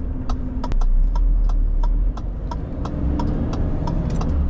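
Indicator relay ticking steadily in a lorry cab, about three clicks a second, with the turn signal on for a right turn. Under it the Renault T480's diesel engine rumbles steadily, and there is one sharp click just under a second in.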